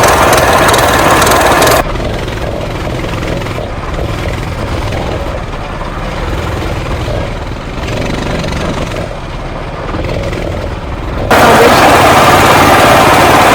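Coleman CT200U minibike's single-cylinder four-stroke engine running while being ridden, with heavy wind rush on the microphone. The wind noise drops away sharply about two seconds in, leaving the engine more plainly heard, and comes back loud near the end.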